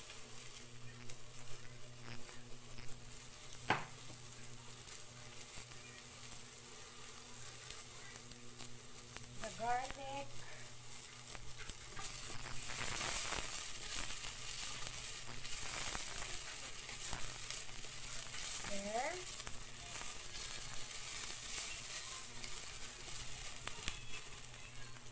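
Chopped onions frying in oil in a pot, a steady sizzle that gets louder about halfway through as garlic goes in. A single sharp click about four seconds in.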